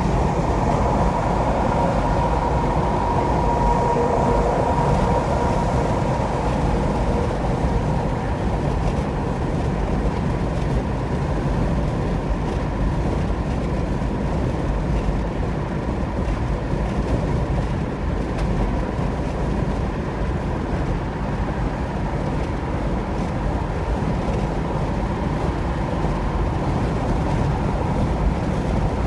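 Steady road and tyre noise of a car driving at highway speed, with a faint whine in the first few seconds that fades out.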